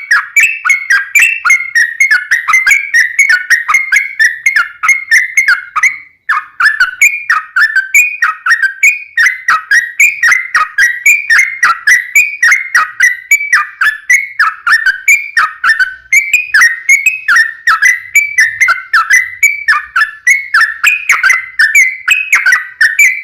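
Yellow-vented bulbul (trucukan) singing a long, rapid run of whistled notes, many sliding down in pitch, several a second, with a brief pause about six seconds in. It is a loud, fast 'gacor' song used as a lure to make other trucukan answer.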